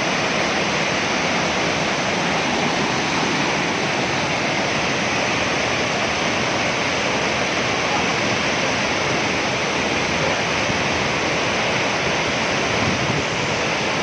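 Waterfall: a large cascade of water crashing down, a steady, dense rushing roar.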